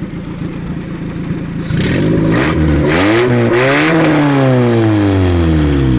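Car engine running, then revving up hard in several quick rises about two seconds in, then winding down in one long, slow fall in pitch.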